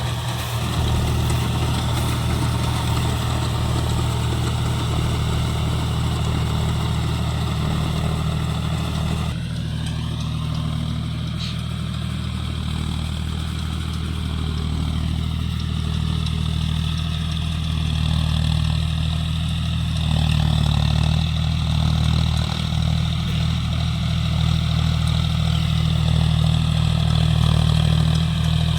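John Deere 5050D tractor's three-cylinder diesel engine running steadily under load while driving a rotavator through wet mud. The higher part of the sound changes about nine seconds in, and the engine grows a little louder in the last third.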